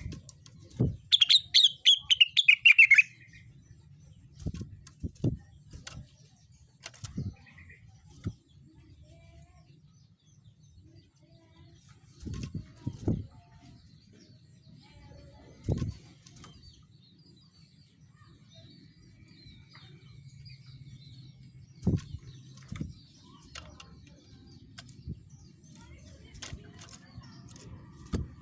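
A rengganis songbird gives one loud, rapid trill of notes falling in pitch, lasting about two seconds, about a second in. It is followed by a dozen scattered soft low thuds and a few faint chirps.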